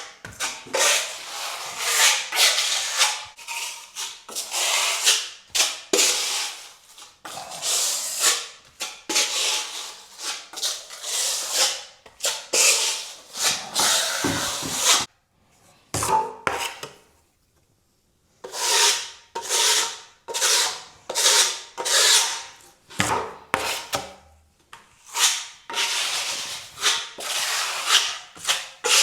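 Filling knife scraping filler across a wall in repeated strokes, about one or two a second, with a pause of a few seconds partway through.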